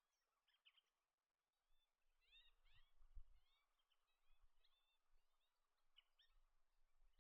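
Near silence with faint bird chirping: clusters of quick, high, rising chirps, and a brief low rumble around the middle.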